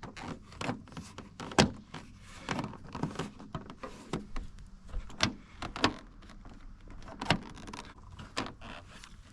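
Irregular clicks, knocks and rustling of a plastic snowmobile snowflap being handled and lined up on the back of the sled, with a dozen or so sharp taps scattered through.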